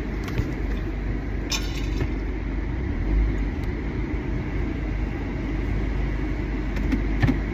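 Steady low rumble of a car heard from inside the cabin, with a couple of brief clicks.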